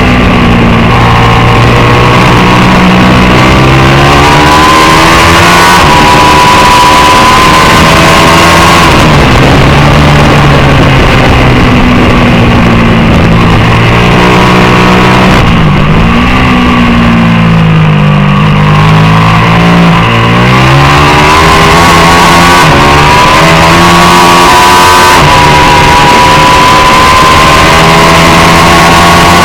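Racing motorcycle engine at high revs, loud, its pitch climbing in long sweeps as it pulls through the gears. Around the middle the revs drop and jump in quick steps, as when the rider brakes and downshifts for a corner, then climb again.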